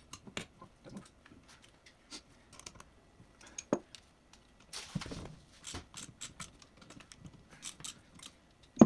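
Metal engine parts and hand tools clicking, clinking and knocking during an engine teardown, with a brief scrape about five seconds in and a sharp knock near the end.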